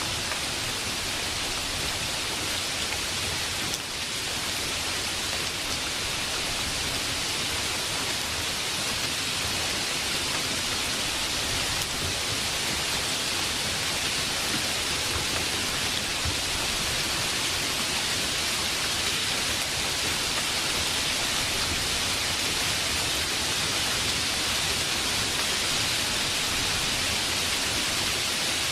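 Steady heavy rain, an even hiss that grows slightly louder over the stretch.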